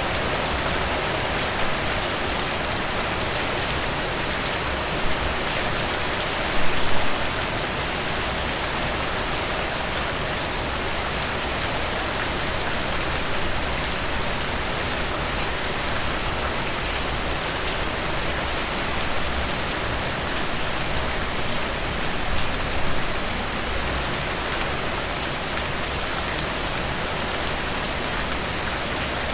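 Heavy rain falling steadily, a dense even hiss with individual drops ticking; it swells briefly louder about seven seconds in and again near 23 seconds.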